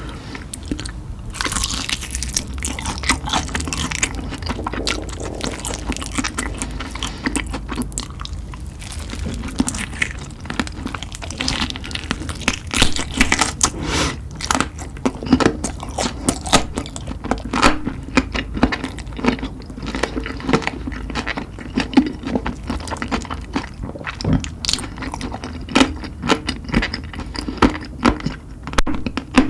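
A person chewing and biting into spicy chicken, with continual irregular crunches and wet mouth clicks.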